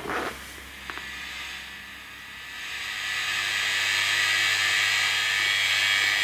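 Fender tube guitar amplifier with no input: a low hum under a high hiss that swells up about two and a half seconds in and then holds steady, the amp's own noise with it turned up to full power.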